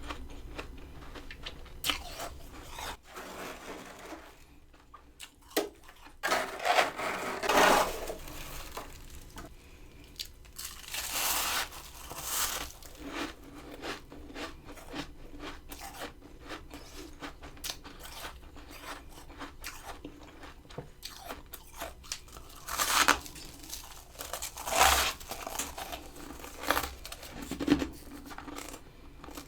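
Freezer frost ice crunching in irregular bursts, with the loudest crunches about six to eight seconds in, around eleven to twelve seconds, and twice more near the end.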